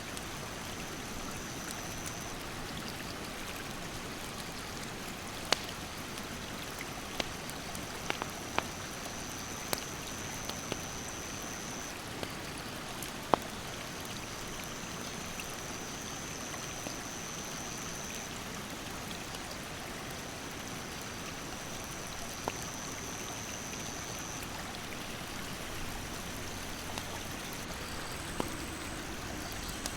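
Mountain stream rushing steadily, with a wood campfire crackling in sharp, scattered pops. A high-pitched insect call comes and goes in stretches of a few seconds.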